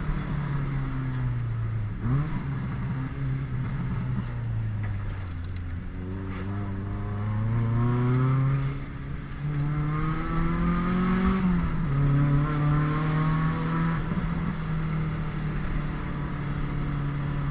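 Honda Civic four-cylinder engine heard from inside the car on a spirited drive: the engine note falls away for a few seconds, then climbs steadily under acceleration. About eleven seconds in the pitch drops sharply at an upshift, then holds steady.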